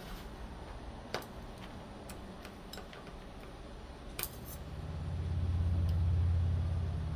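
Small metal clicks and taps of folding-knife parts being handled and fitted together, a handful of separate clicks. A low hum swells in about two-thirds of the way through and becomes the loudest sound.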